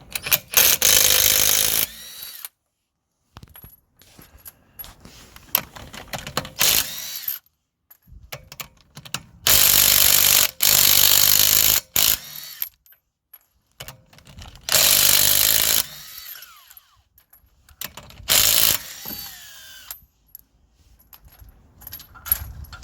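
Impact wrench run in several short bursts of a second or two each, undoing the wheel's lug nuts to take the wheel off, with small metal clicks between bursts.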